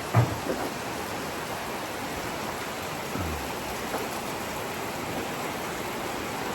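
Steady, even rushing noise, with a brief knock about a quarter of a second in.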